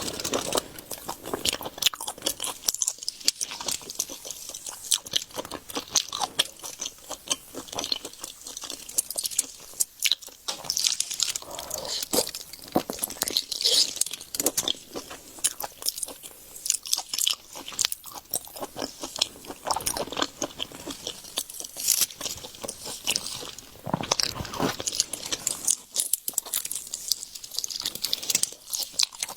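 Close-miked chewing and biting with a steady run of crunches and crackles, throughout.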